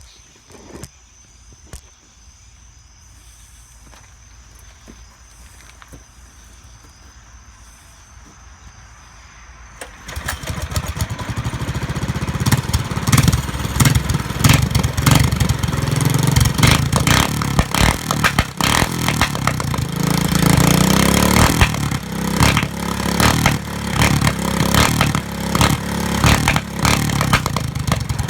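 Mini bike engine with a custom exhaust: quiet for about ten seconds, then it starts and runs loud and rough, with rapid irregular pops through the exhaust.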